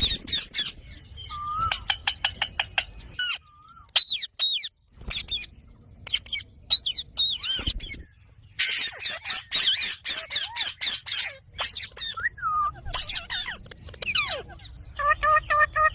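Green parrots chattering and squawking: many quick, sharp chirps and clicks, short whistling calls that slide up and down in pitch, and, near the end, a fast run of repeated calls.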